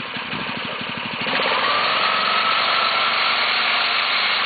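Small tractor engine ticking over with distinct, even firing beats, then opened up about a second in and held at a higher, steady speed with a faint whine.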